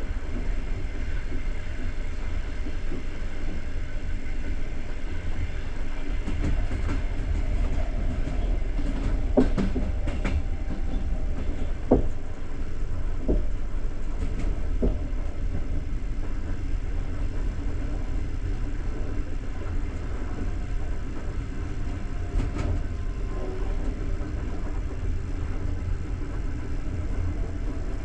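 Passenger train carriage rolling along the track: a steady low rumble of wheels on rails, with a handful of sharp knocks between about nine and fifteen seconds in.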